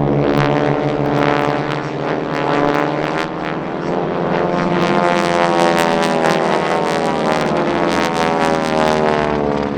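Piston-engine propeller aircraft flying past, a loud steady engine drone whose pitch slides as it passes.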